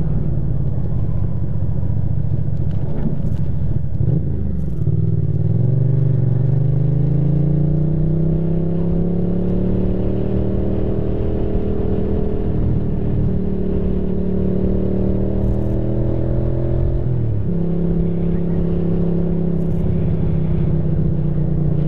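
Ducati motorcycle engine running under way, with wind noise. The engine note dips about four seconds in, climbs gradually over several seconds and holds, then drops sharply near the end and settles at a lower pitch.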